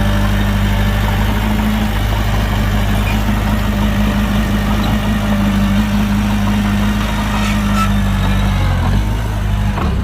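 Heavy diesel engine of earthmoving machinery running steadily at low revs, its pitch shifting slightly near the end.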